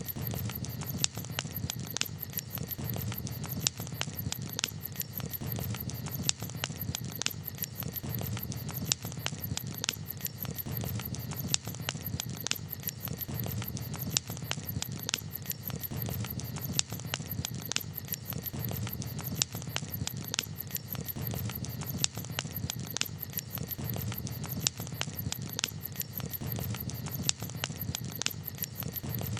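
Campfire crackling: a steady low rush of burning wood with frequent sharp, irregular pops and snaps.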